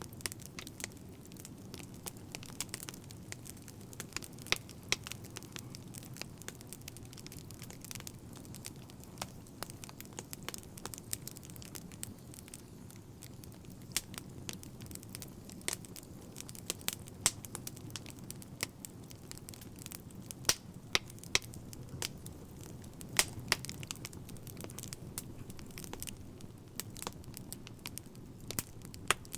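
Crackling fire: a steady low rumble of burning with frequent sharp, irregular pops and snaps throughout.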